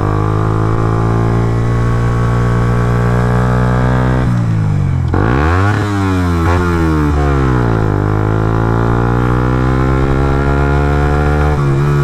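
Suzuki GSX-R125 motorcycle's single-cylinder engine running steadily; about five seconds in the revs drop and then climb sharply, wavering for a couple of seconds before settling back to a steady note.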